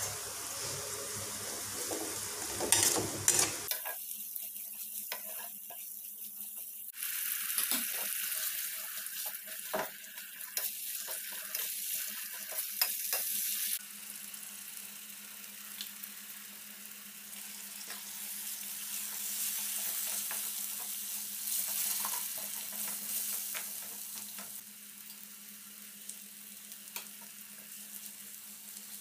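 Onion-and-spice masala sizzling in hot oil in a stainless steel kadai, with a steel spatula stirring and scraping against the pan. The sizzle jumps in level abruptly a few times.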